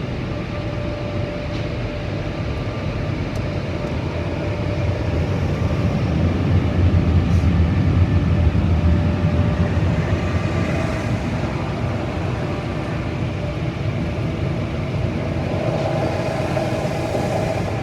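Car wash machinery running: a steady rumble with a faint whine held through it, swelling louder a few seconds in and easing off again.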